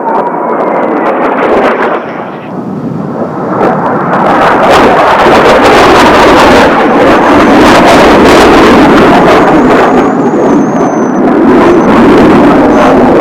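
Jet noise from Blue Impulse's Kawasaki T-4 jets flying over, swelling about four seconds in and staying loud, with gusts of strong wind buffeting the microphone.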